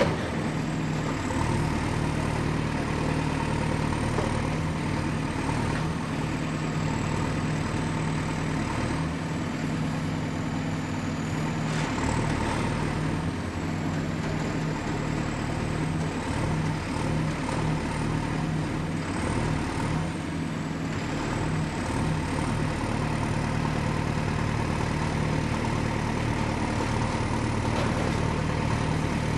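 Excavator's diesel engine running steadily, with a thin high whine wavering slightly in pitch above the engine note.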